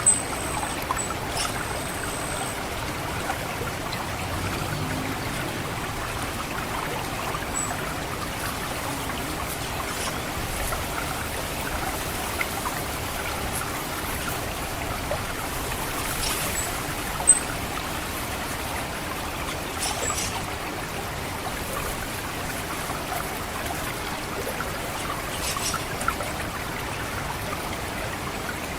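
Steady trickling water running through a rice paddy, with a few short, very high 'cit' call notes of an orange-headed thrush scattered through it, the loudest at the very start and another about two thirds of the way in.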